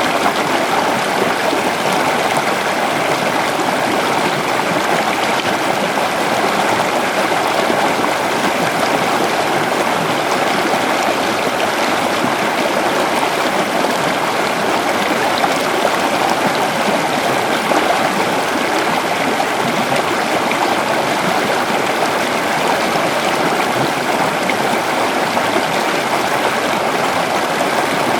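River water flowing steadily over rocks: an even rush of running water with no changes.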